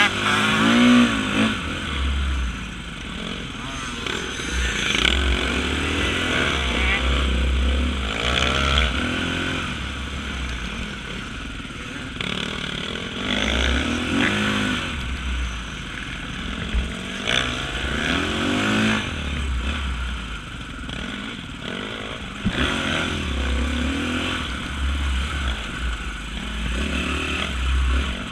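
Off-road motorcycle engine revving up and falling back over and over as the bike is ridden, with wind rumbling on the microphone.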